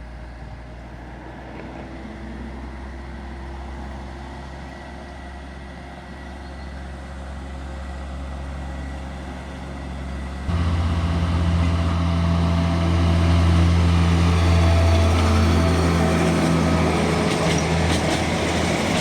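A narrow-gauge railway diesel locomotive's engine running with a steady hum. About ten seconds in it becomes suddenly much louder, with a strong deep drone.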